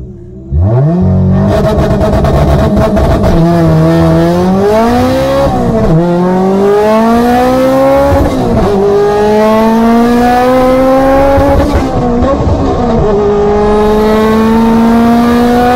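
Turbocharged fourth-generation Honda Prelude's four-cylinder engine at full throttle on a drag-strip pass, heard from inside the cabin. It launches about half a second in, and its pitch climbs in each gear and drops at each upshift, four times, roughly every two to three seconds.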